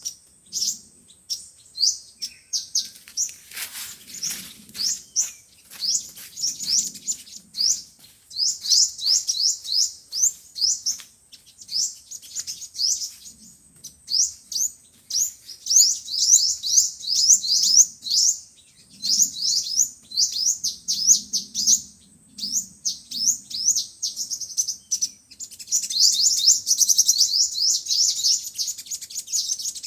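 Sunbirds singing: rapid, high-pitched chirping trills of quick falling notes in repeated bouts, densest near the end. This is sunbird song of the kind played as a lure to call sunbirds in.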